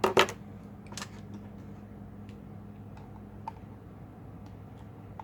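Sharp clicks and taps of hands working on a laptop during disassembly: two loud clicks right at the start, another about a second in and a faint one about three and a half seconds in, over a steady low hum.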